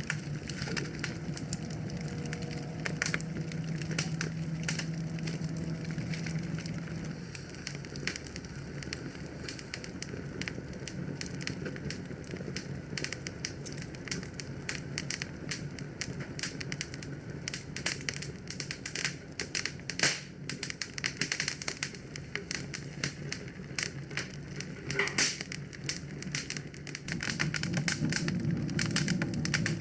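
Wood fire crackling in a fireplace: a dense run of small sharp snaps and pops, with a few louder ones. A low steady hum sits underneath at the start and comes back near the end.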